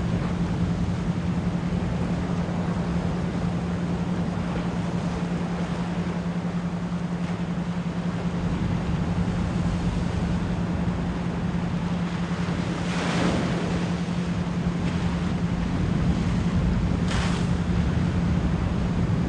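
Ocean waves washing steadily under a continuous 174 Hz pure tone, with two brief brighter swashes of surf in the second half. The tone is the track's isochronic brainwave-entrainment layer.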